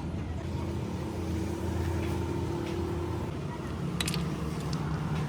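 Steady low machine hum, like an engine or motor running, with a sharp tap about four seconds in.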